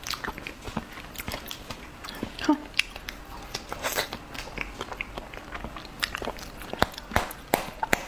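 Close-miked chewing of a fresh fig: irregular wet smacks and clicks of the lips and mouth as the soft fruit is eaten.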